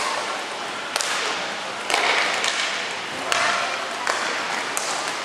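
Ice hockey play on the rink: sharp clacks of sticks striking the puck, about one a second, amid the hissing scrape of skate blades on the ice.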